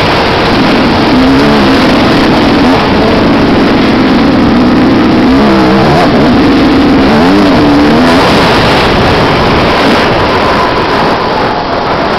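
Motocross motorcycle engine revving, very loud and close, its pitch rising and falling repeatedly with a quick up-and-down wobble about halfway through.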